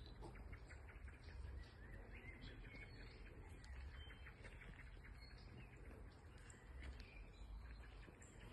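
Faint birdsong: several small birds chirping and calling in quick short notes, over a low steady rumble.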